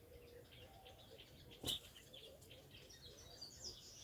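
Faint small-bird chirping, with one short sharp click a little before the middle.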